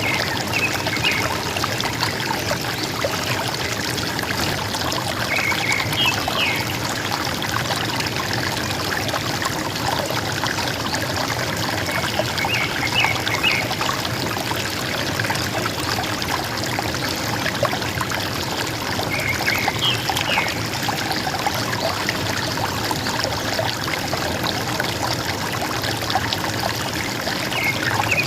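River water flowing steadily, with a forest bird's short chirping call coming back about every six to seven seconds.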